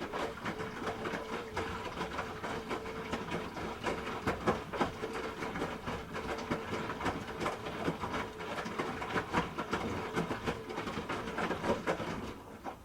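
Hoover H-Wash 300 Plus washing machine drum turning during a rinse, with a steady motor whine and dense rattling clicks from the load tumbling. It stops just before the end.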